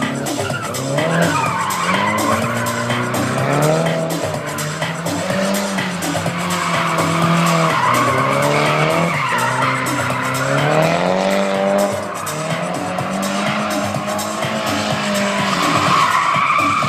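Nissan S14 240SX's turbocharged SR20DET inline-four revving up and down repeatedly while drifting, over continuous tyre squeal.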